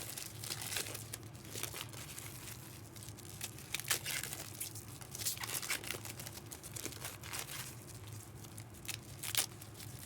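Packaging crinkling and tearing, in irregular short rustles and crackles, over a steady low hum.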